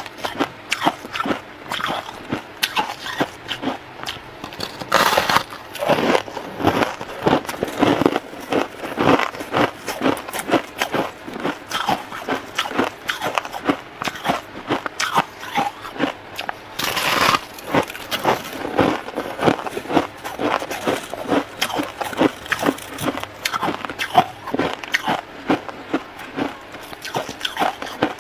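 Close-up biting and chewing of soft white freezer frost: rapid, continuous crunching, several small crunches a second with no real pauses.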